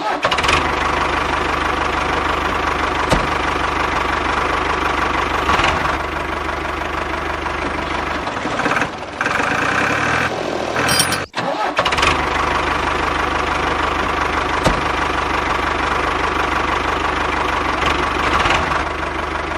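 Tractor engine running steadily at idle. Its sound changes for a couple of seconds a little past the middle and cuts out for a moment about eleven seconds in.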